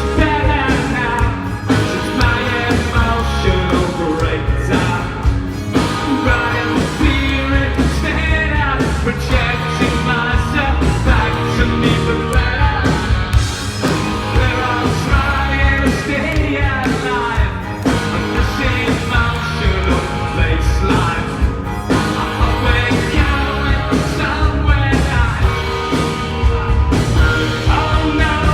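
A rock band playing live, loud, with a male lead singer over electric guitars, bass and drums. The sound is dense and heavy in the bass, with the ring of a concert hall.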